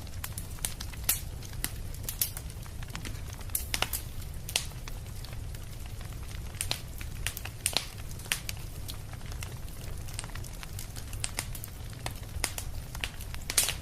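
Fireplace fire crackling: irregular sharp pops and snaps, a few louder than the rest, over a low steady rumble of the flames.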